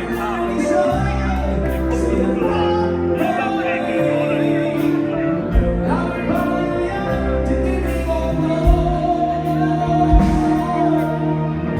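Amplified live band music with a singer: sustained bass notes that change every second or two under a wavering vocal line, with occasional drum hits.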